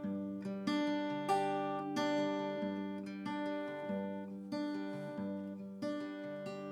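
Acoustic guitar playing an instrumental passage of a song, notes plucked at a steady pace of about two a second and left to ring.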